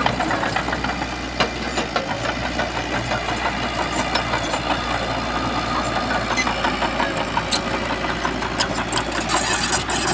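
Heavy diesel engine of earthmoving machinery running steadily, with a rough knocking rattle and scattered sharp metallic clanks.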